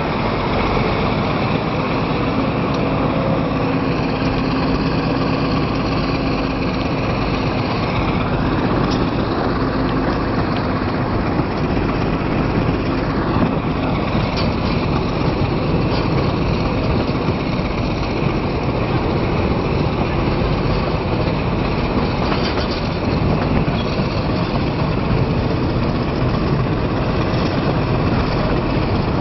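A train running along the rails, heard from on board: a steady rumble of wheels and running gear mixed with diesel engine noise.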